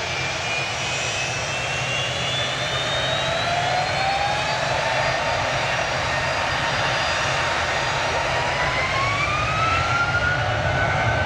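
Jet airliner engines running: a steady rush and rumble that slowly grows louder, with whines that climb in pitch over several seconds.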